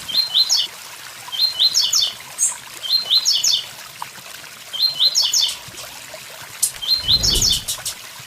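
Blue-black grassquit (tiziu) singing its short 'tui tui zel zel' phrase over and over, about once a second, over the steady rush of a waterfall. A brief low thump with a few clicks comes about seven seconds in.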